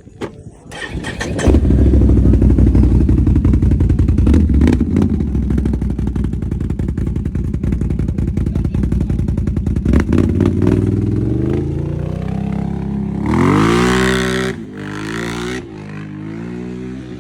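1000R's engine running through an aftermarket HMF exhaust. It comes in loud about a second in and runs at a steady pitch, then is revved twice near the end, the pitch climbing and dropping each time.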